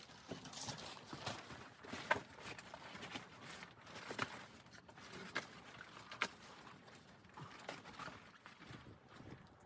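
Irregular knocks, scrapes and crunches, a few a second, with a sharp knock about two seconds in and another about six seconds in.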